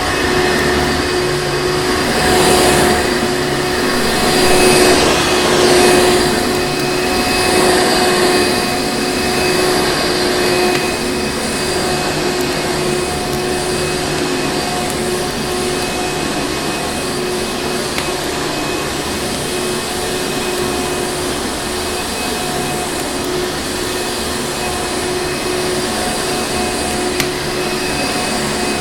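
Vacuum cleaner motor running steadily with a whine, its rushing noise swelling louder a few times in the first ten seconds.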